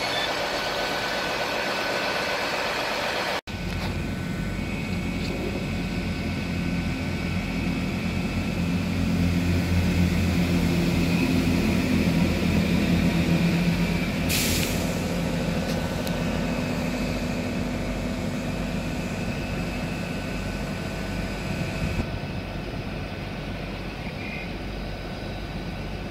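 GWR Hitachi Class 800-series bi-mode intercity train running on its underfloor diesel engines: a steady low rumble with a whine above it, swelling for several seconds and then easing. A short sharp hiss of air comes about halfway through.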